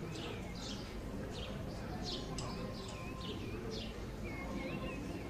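Birds chirping, a quick series of short high falling chirps with a few warbled notes near the end, over a murmur of many people's voices.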